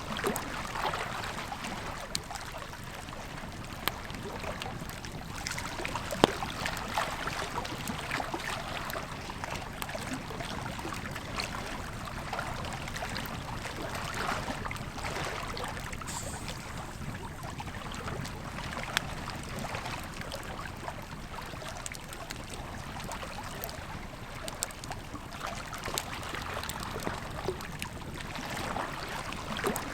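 Wood campfire crackling with scattered sharp pops, the loudest about six seconds in and again near nineteen seconds, over the steady rush of a flowing river.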